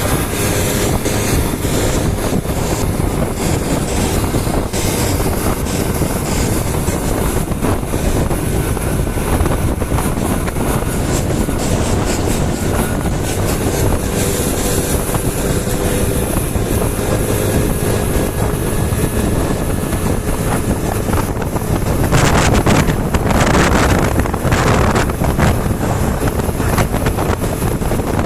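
Steady wind rush on the microphone from riding a moving vehicle, with a faint engine note underneath. Heavier gusts come in over the last few seconds.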